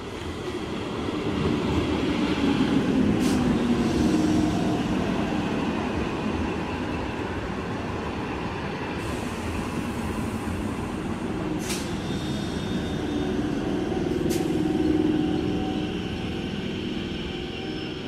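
Electric multiple unit (EMU) local train passing close by, its coaches rumbling over the rails. It grows louder over the first two seconds as the train comes level, stays loud as the cars roll past, and has a few sharp knocks along the way.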